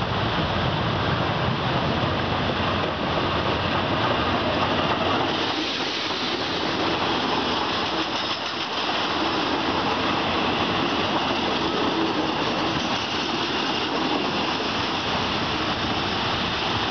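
A diesel-hauled passenger train runs close past along the platform. The locomotive's engine rumble is heavy for the first five seconds or so, then gives way to the steady rolling rush of the coaches' wheels on the rails.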